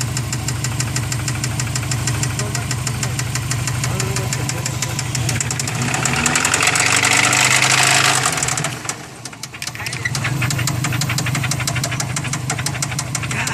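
Subaru engine running with a rapid, even ticking knock, the mystery noise that the owners wonder may come from cylinder number 4 or the turbo. About six seconds in it is revved briefly with a rushing hiss, then drops back and settles to idle.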